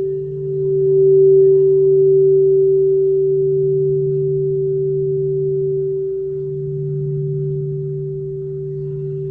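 Quartz crystal singing bowls ringing: two steady, pure, sustained tones, one low and one higher, swelling and fading slowly in volume.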